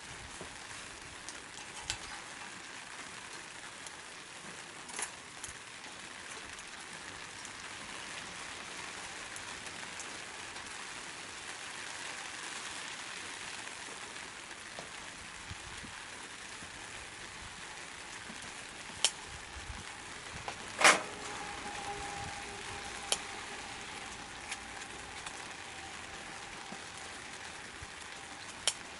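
Small wood-stove fire of chopsticks, pellets and scrap wood burning with a steady crackling hiss, broken by a few sharp pops, the loudest about two-thirds of the way through.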